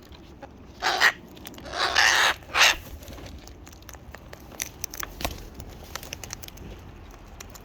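Cockatoos giving three short, loud squawks in the first three seconds, followed by a run of small clicks and taps from beaks pecking at food.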